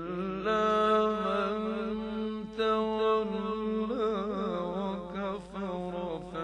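A man reciting the Quran in the melodic mujawwad tajweed style, holding long notes that waver in ornamented turns.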